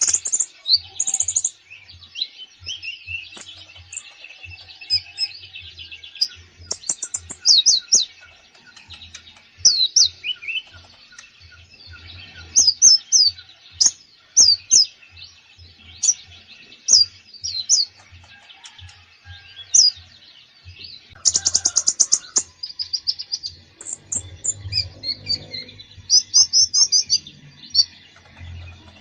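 A konin songbird singing a prolific, varied 'gacor' song full of inserted phrases: quick chirps and rising and falling whistles, with a dense fast trill about three-quarters of the way through.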